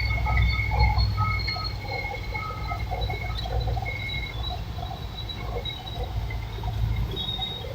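A heavy engine rumbling low and steady, with short high squeaks coming on and off.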